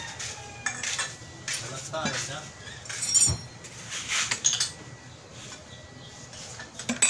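Metal clinking and knocking, several separate clicks and clanks, with voices talking in between.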